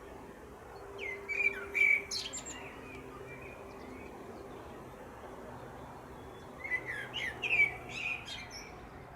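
A songbird singing two short phrases of high chirping notes, the first about a second in and the second about five seconds later, over a faint steady background hum.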